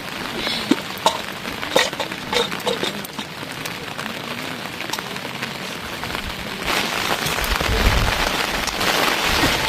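Rain falling, with scattered sharp drips in the first few seconds; the rain grows louder and heavier about two-thirds of the way through.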